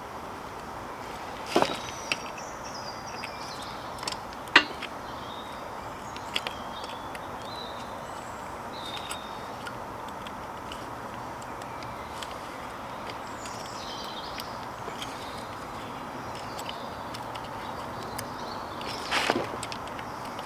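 A few scattered sharp knocks or clinks over a steady hiss. The loudest comes about four and a half seconds in, and there is a pair near the end. Faint high chirps sound in the background now and then.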